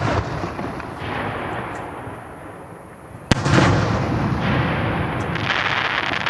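Aerial firework shells bursting: one sharp bang about three seconds in, each burst followed by a long rolling rumble and a crackling hiss that runs on for seconds.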